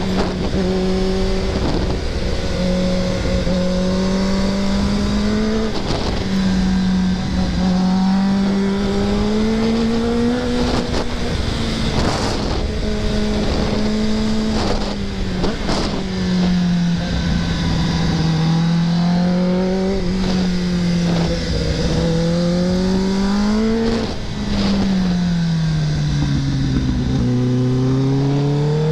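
Kawasaki ZX-10R's inline-four engine riding through canyon bends, its pitch rising on the throttle and falling off again every few seconds.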